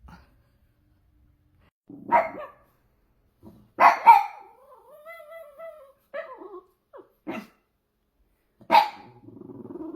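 A pug barking and vocalising: three sharp barks about 2, 4 and 9 seconds in, a drawn-out wavering whine-howl right after the second bark, short yips in between, and a low growl near the end.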